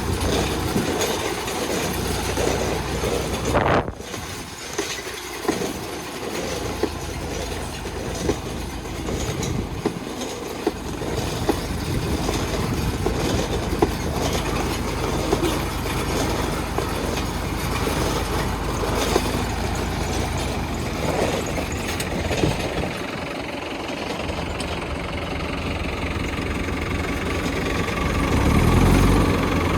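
Tractor engine running steadily while a homemade drip-tape laying machine is towed, with irregular metallic clicking and rattling from the implement.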